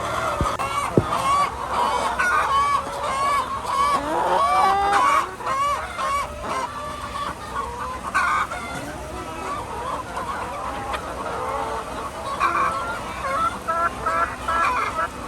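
A flock of laying hens clucking and calling over one another, with a quick run of short repeated calls near the end. A sharp click about a second in.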